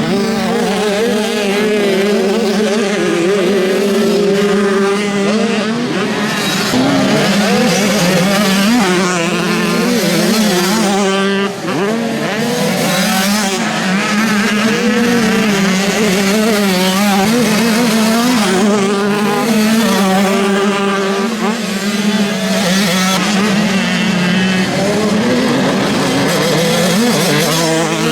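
Several motocross bikes' engines running hard on the track, their pitch rising and falling as riders open and close the throttle, with a glide in pitch about eleven seconds in as a bike passes close.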